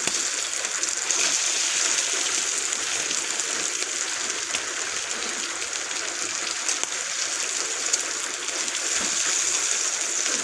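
Bacon sizzling on a griddle over a camp stove turned down low: a steady hiss with a few faint pops.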